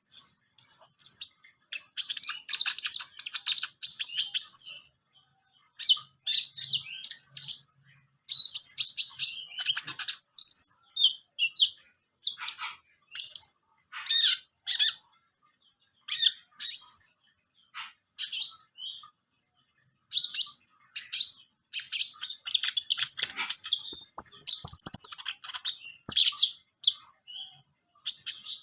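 A small songbird, the konin, chirping and twittering in quick high-pitched bursts of a second or two, with short pauses between phrases.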